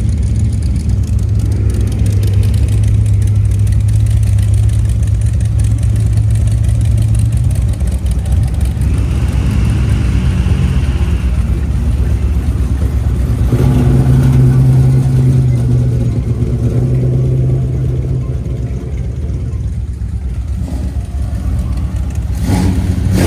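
Car engines running as show cars drive out one after another, one engine's low steady note, then another about halfway through. A short loud rev comes near the end.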